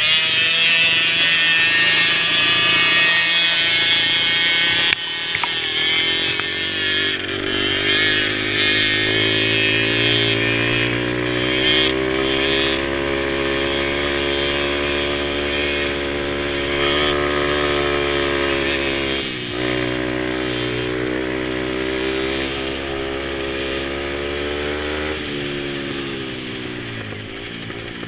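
Mini quad's small engine running under throttle, its pitch climbing steadily through the middle, then dipping briefly twice where the throttle is eased off before picking up again.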